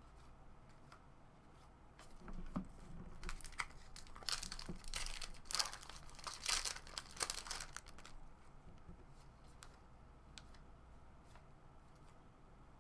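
A baseball card pack's wrapper being torn open and crinkled: a run of crackling rips and crinkles lasting about six seconds, then a few faint ticks.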